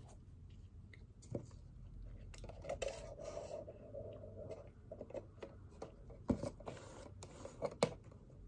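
Pen scratching on paper at a desk, with a longer rubbing stroke about three seconds in, scattered small clicks, and two sharp knocks of objects set down on the desk near the end.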